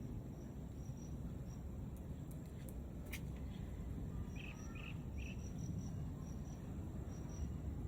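Outdoor garden ambience: insects, likely crickets, chirping in short high pulses over a steady low rumble, with a few louder chirps about halfway through and a single sharp click about three seconds in.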